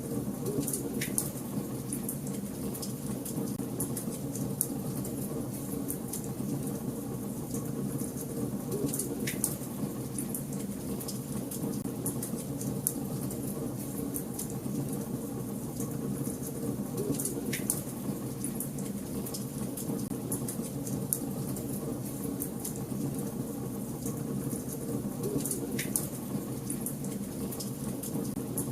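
Fire burning in a fireplace: a steady low rumble with constant fine crackling, and four louder snaps roughly eight seconds apart.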